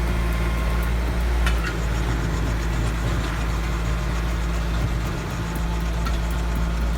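Tractor engine running steadily, driving a PTO stump grinder, with a low, even hum. The level dips briefly about five seconds in.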